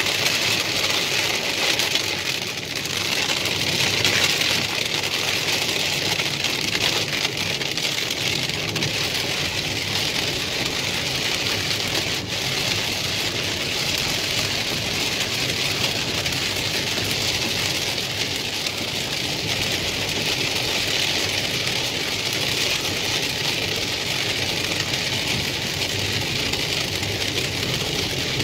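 Heavy rain beating on a moving car, heard from inside the cabin, over the steady low rumble of the engine and tyres on the wet road.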